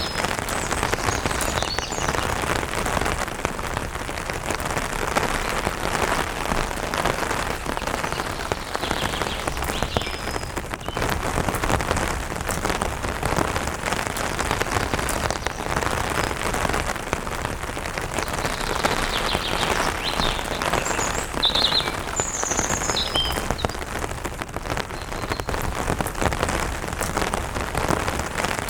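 Light rain pattering steadily on an umbrella canopy. A few brief bird chirps come through now and then, most around two-thirds of the way in.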